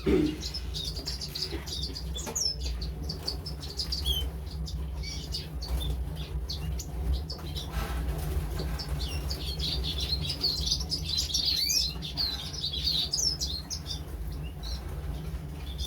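Small birds chirping: many short, quick chirps that rise and fall in pitch, busiest about two-thirds of the way through, over a steady low hum. A short thump sounds right at the start.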